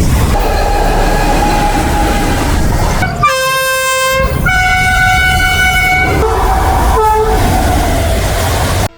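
Indian Railways diesel locomotive hauling an express train past at speed, with a steady loud rumble of wheels on rail. The locomotive's multi-tone horn sounds two long blasts a few seconds in, then a short toot. The rumble cuts off suddenly just before the end.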